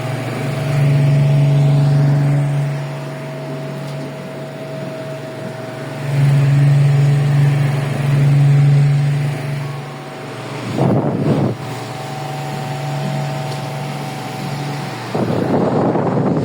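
Electric fan running with a steady motor hum. The fan's airflow buffets the microphone in a short rush about eleven seconds in, and again from near the end.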